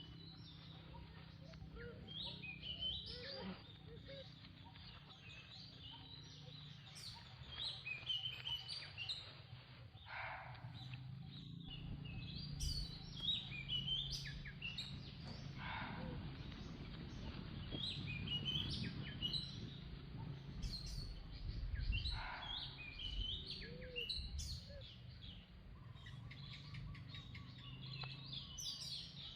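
Birds chirping and calling in short, scattered high notes, over a steady low hum.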